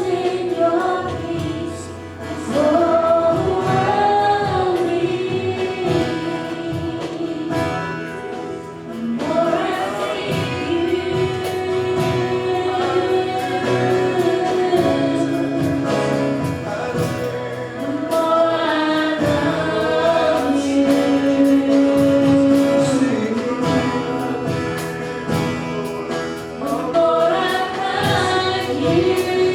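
Live gospel singing with instrumental accompaniment, in phrases of long held notes.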